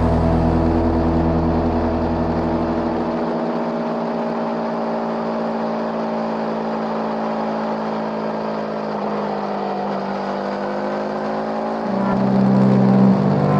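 Sport motorcycle engine running on the move, its pitch sagging through the middle and rising again, then getting louder near the end as it pulls harder.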